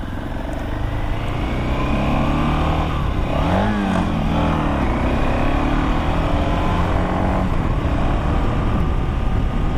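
Motorcycle engine pulling away and getting louder over the first couple of seconds. Its pitch briefly rises and falls about three and a half seconds in, then it runs steadily.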